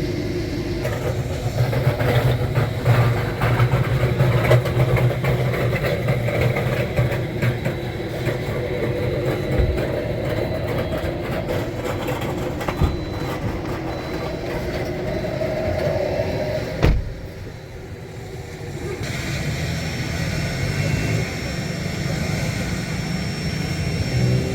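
A motor running with a steady low hum under a rough, crackling hiss. A sharp click comes about 17 seconds in, the sound dips briefly, then a smoother hum with a faint high whine carries on.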